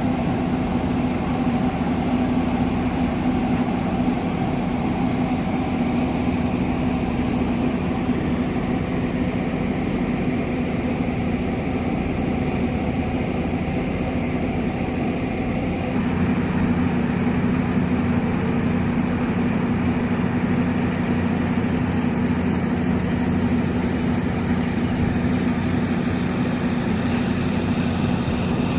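A large engine running steadily at constant speed, a low hum that holds one pitch; the higher hiss eases slightly about sixteen seconds in.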